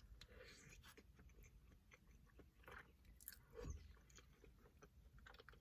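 Faint close-up chewing of food, with scattered small mouth clicks.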